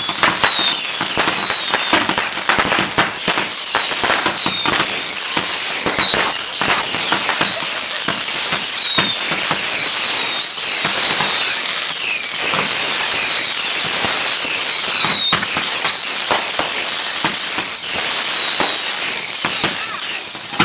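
Fireworks going off continuously: a dense run of crackles and pops mixed with many short, high whistles that each fall in pitch, several a second, without a break.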